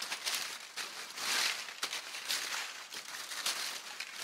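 Dry leaves and twigs rustling and crunching in irregular bursts as they are handled and gathered from the ground.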